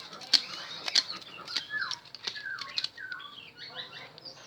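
Small birds chirping and twittering in short falling calls, with several sharp clicks mixed in.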